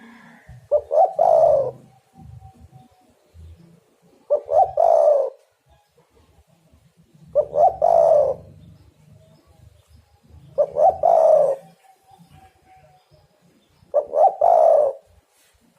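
Spotted dove (tekukur) cooing: five repeated three-note calls, two short notes then a longer one, about every three seconds.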